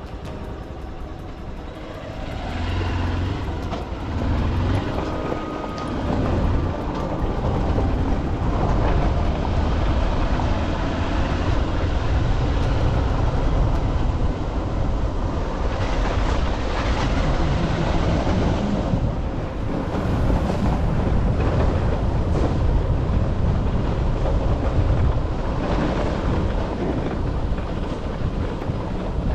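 Vehicle noise from travelling along a road: a steady low rumble that grows louder about two seconds in.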